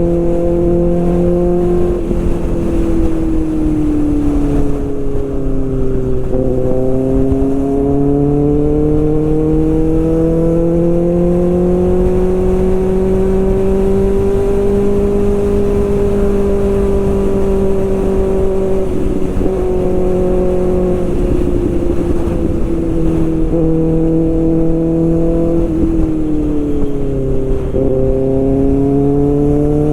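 Kawasaki ZX-6R's inline-four engine running under way, its pitch rising and falling slowly with throttle and speed, with a few sudden steps in pitch.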